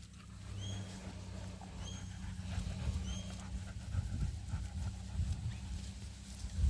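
Puppies panting and moving about, with three short high chirps about a second apart in the first few seconds.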